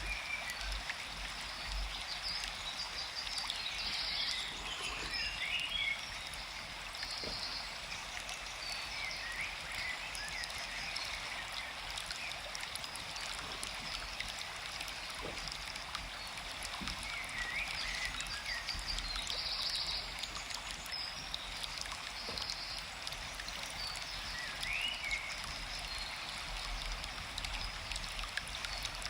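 Forest stream running steadily, with short chirping calls now and then over the sound of the water.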